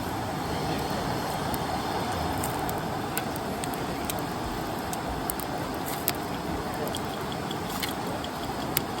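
Steady rush of a river beside the camp, with sharp crackles now and then from a wood campfire. A faint insect chirps in quick even repeats near the end.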